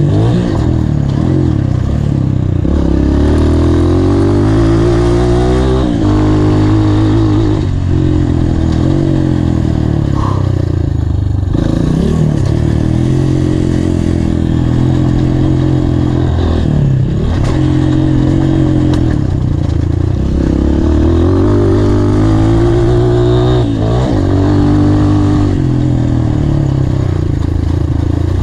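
Honda CRF230 dirt bike's single-cylinder four-stroke engine revving hard. Its pitch climbs and drops back every few seconds as the throttle is opened, shut and the gears are shifted on a motocross track.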